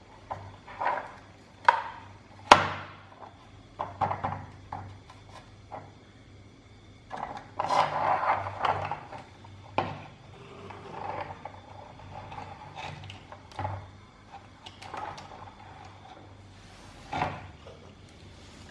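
Irregular sharp clacks and knocks of small hard parts being handled, with a stretch of scraping or rubbing in the middle, as in taking apart and working on a small model truck by hand.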